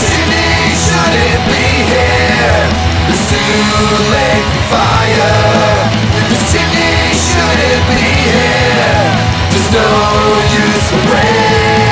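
Punk rock band playing loud and steady: distorted electric guitars, bass and drums, with repeated cymbal crashes and a lead line that bends up and down in pitch.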